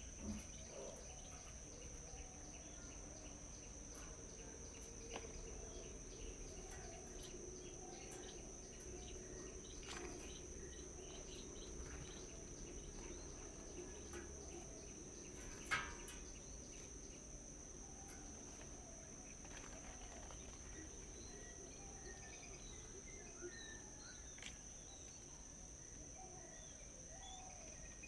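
Insects keep up a steady high-pitched drone while birds give scattered short chirps and calls. A sharp click stands out about halfway through, with a softer one near the start.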